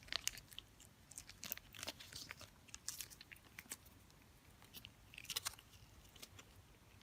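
Cat eating a treat, with small chewing and licking clicks coming in short irregular bursts.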